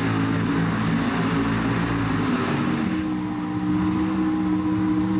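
Drag race car engine running hard at high, held revs. Its pitch steps up about three seconds in and then holds steady.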